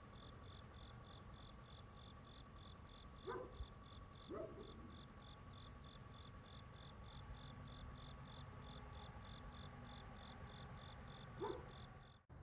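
Crickets chirping at night in a steady pulse of about three chirps a second, over a thin steady high tone and a low rumble. Three short, louder animal calls stand out, about three and four and a half seconds in and again near the end.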